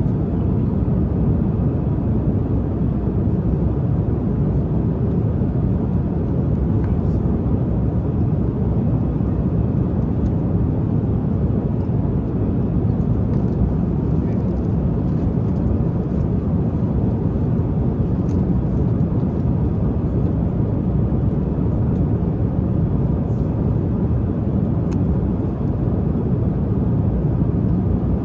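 Steady, even rumbling drone of a jet airliner's cabin in cruise flight, with a few faint light ticks.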